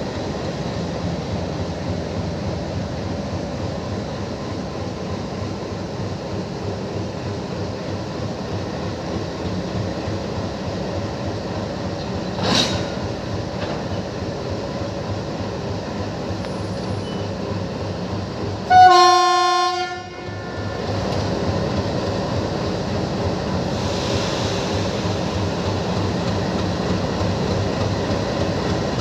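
Diesel locomotive engine running steadily, with one sharp knock about twelve seconds in. About two-thirds of the way through comes a single horn blast, about a second long and the loudest sound.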